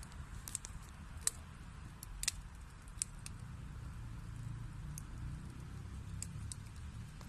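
Wood fire burning in a fireplace: scattered sharp crackles and pops, about one a second, over a low steady rumble of the flames.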